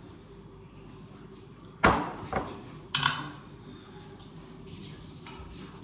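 Dishes clanking while being washed at a sink, with three sharp knocks between about two and three seconds in, over faint running water.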